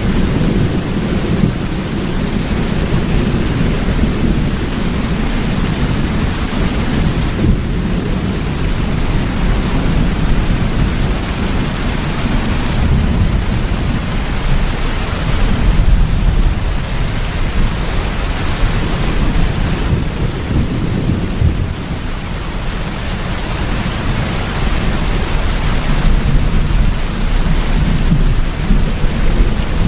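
Steady, heavy rain with a continuous low rumble of thunder underneath, as in a thunderstorm.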